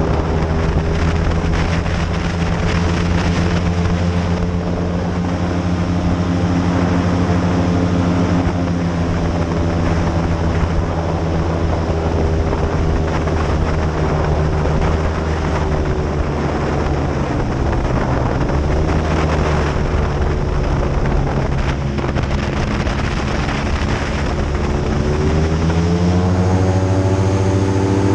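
Airboat's engine and large air propeller running loud at speed. The pitch sags briefly around the middle, then the engine revs up near the end.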